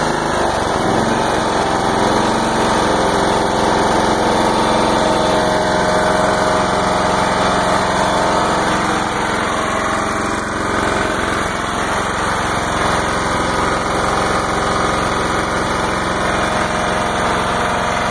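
John Deere GT275 lawn tractor engine running steadily.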